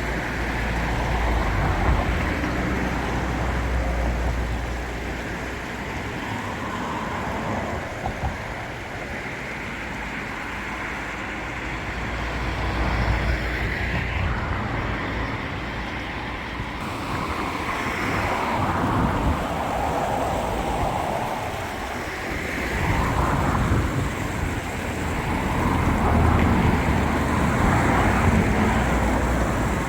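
Steady outdoor rushing noise that swells and eases every few seconds, with wind buffeting the microphone.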